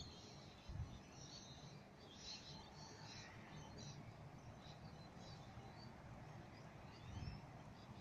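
Birds chirping repeatedly over a faint, steady low rumble from a Sydney Trains Millennium electric train set approaching the station at a distance.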